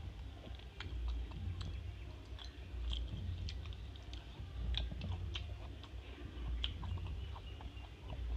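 A person chewing a mouthful of rice and greens close to the microphone, with many small, irregular wet clicks and smacks.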